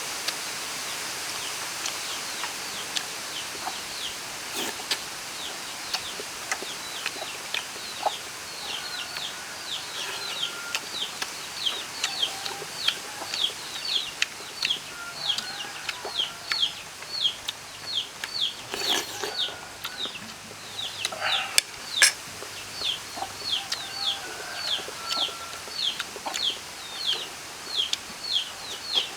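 Chickens: chicks peeping in a steady series of short, high, downward chirps, two or three a second, with a few low clucks now and then. Two sharp knocks sound about two-thirds of the way in.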